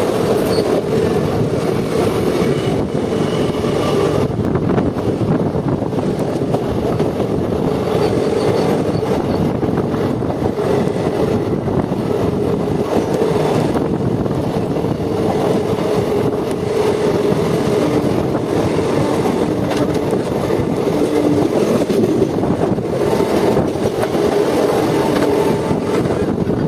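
Train running at speed on the rails: a steady, loud rumble of wheels and coaches with a constant hum.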